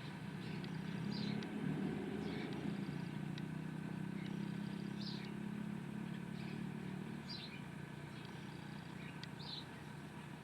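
A motor vehicle passing, its low engine-and-tyre rumble swelling over the first couple of seconds and slowly fading away, while small birds give short, repeated chirps.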